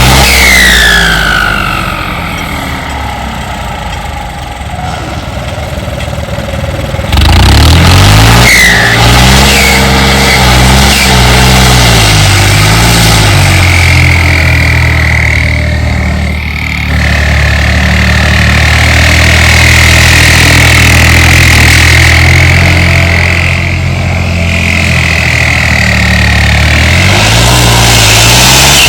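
Turbocharged tractor diesel engine working, its pitch rising and falling. It is softer for the first several seconds and loud from about seven seconds in, with a steady high turbo whistle in the second half.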